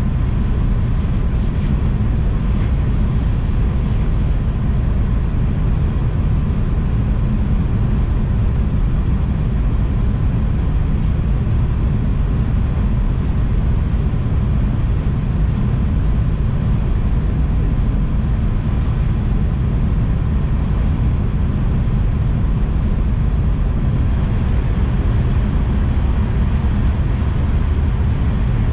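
Tohoku Shinkansen bullet train running at speed, heard inside the passenger cabin: a loud, steady, low rumble of running noise.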